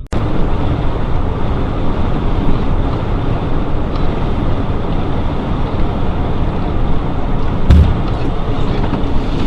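Loud steady rumble of a vehicle driving, road and engine noise, with a single thump near the end.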